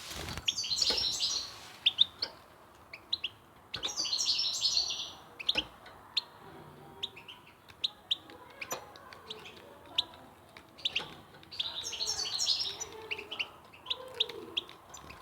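European goldfinch singing: bursts of rapid, high twittering song lasting a second or two, three times, with single short tweets scattered between the phrases.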